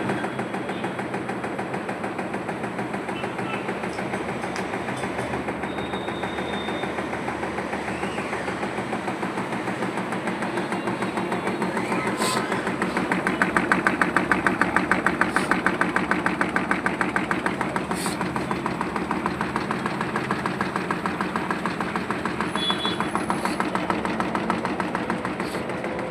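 Samsung front-load washing machine drum spinning with a steady, rapid rhythmic knocking that grows louder in the middle and then eases a little. The knocking is the sign of failed shock absorbers (dampers) letting the drum bang.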